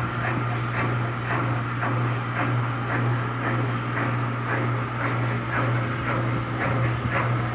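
Electrolux LTD13 washing machine's drum spinning down at the end of its final spin: a steady motor hum with a repeated clatter, about two to three knocks a second.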